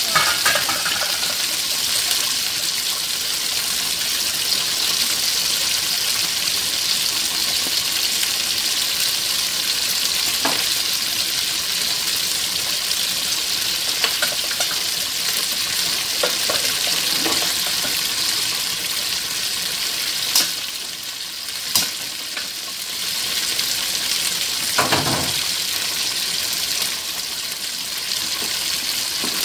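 Steady sizzling hiss of chicken pieces frying in a pan on a gas stove, with a pot of okra stew bubbling beside it. A few sharp clicks and a knock come about two-thirds of the way through, and a spoon stirs the stew near the end.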